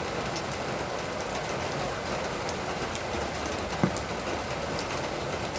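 Steady rain falling, an even hiss with scattered drops ticking, and one sharper knock a little under four seconds in.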